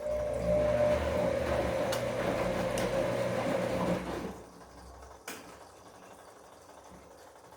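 Bosch Komfort-Klasse washing machine working mid-cycle: a steady motor or pump hum with a rushing, water-like noise over it, which stops abruptly about four seconds in, followed about a second later by a single click.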